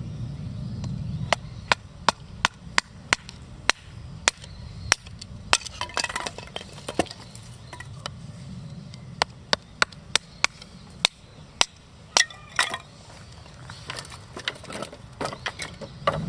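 A run of sharp knocks, about two a second with brief pauses, as something is struck repeatedly by hand, over a low steady rumble.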